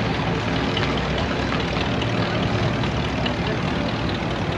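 Steady low engine rumble with no clear changes, and faint voices in the background.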